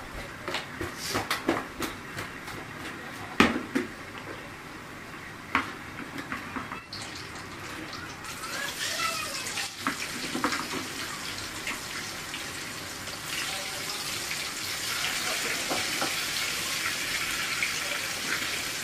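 Pieces of tofu frying in hot oil in a pan. The sizzling starts about eight seconds in and grows louder in steps as more pieces go in. Before it come scattered knocks and clatter from handling the tofu in a plastic bowl, with one louder knock.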